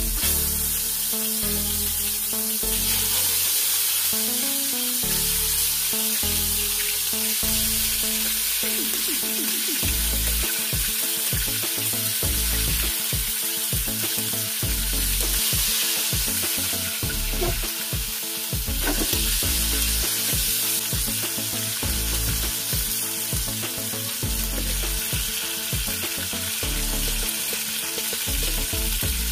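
Rabbit meat sizzling steadily as it fries in hot cooking oil in a metal wok, with a metal spatula now and then scraping and turning the pieces.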